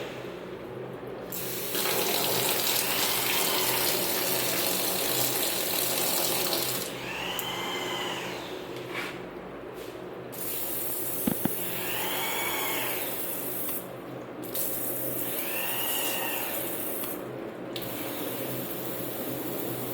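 Water rushing hard from a tap, stopping and starting again several times, with a faint rising-and-falling whistle now and then.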